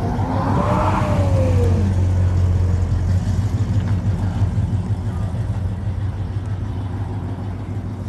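Car engine revved once about a second in, its pitch rising and falling back, over a steady low engine rumble.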